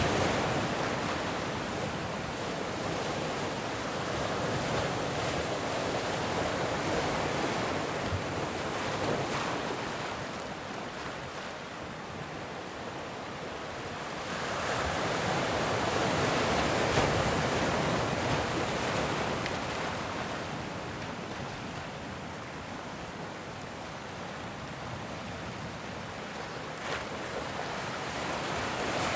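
Ocean waves breaking and washing in, the surf swelling and easing in slow surges several seconds apart.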